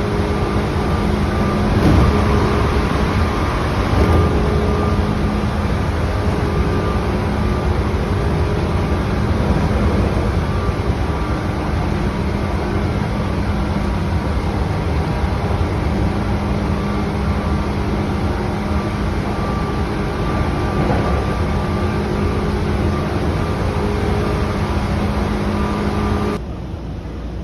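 Tokyu 8500 series electric train running, a steady rumble with several steady humming tones. There are two sharp knocks about two and four seconds in. About a second before the end the noise drops abruptly and the tones stop.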